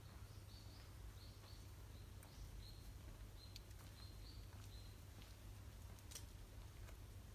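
Faint, repeated high chirps of a small bird, about two a second, stopping about five seconds in, with a few faint scattered clicks.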